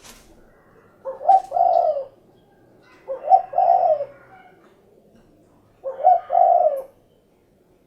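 Spotted dove (derkuku) cooing: three call phrases about two seconds apart, each a short note followed by a longer rolling coo.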